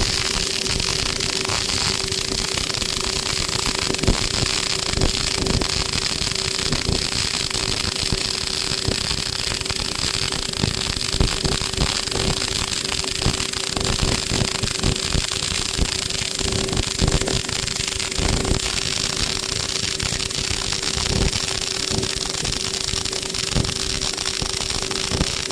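MIG welding arc burning steadily with a dense, even crackle, over a steady hum from the welding set.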